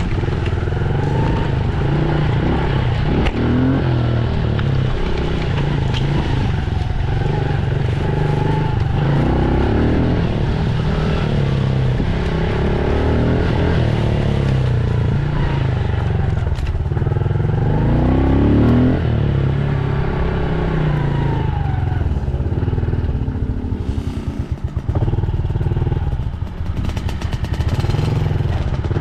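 Dirt bike engine running hard under riding, the revs rising and falling again and again as the rider throttles and shifts.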